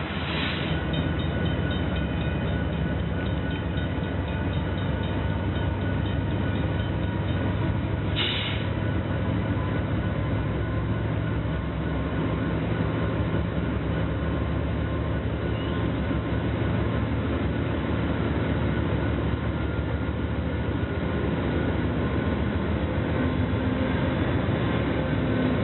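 A train running with a steady low rumble and an even engine drone, over faint thin ringing tones. Two short high bursts come through, one at the very start and one about eight seconds in.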